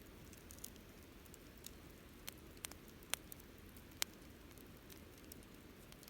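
Wood campfire burning with a faint low rush and scattered sharp crackles and pops, the two loudest a little after three seconds and about four seconds in.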